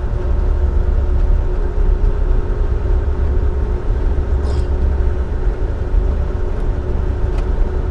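Volvo D13 inline-six diesel engine of a dump truck running steadily at highway speed, with low road rumble, heard from inside the cab. The driver calls it the engine's "crispy sound".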